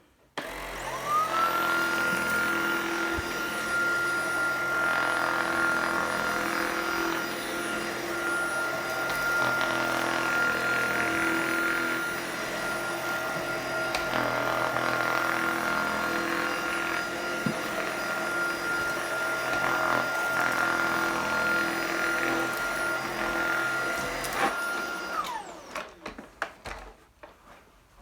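Tineco cordless stick vacuum switched on, its motor whining up to a steady high pitch within about a second, then running steadily with its direct-drive powerhead on a rug. It is switched off near the end and its whine falls away.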